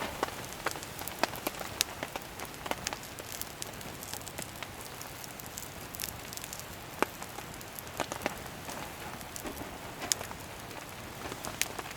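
Steady rain falling, with scattered sharp drop ticks at irregular intervals over an even hiss.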